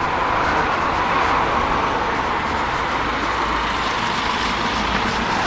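Steady motor traffic noise, a continuous even rush with a low rumble.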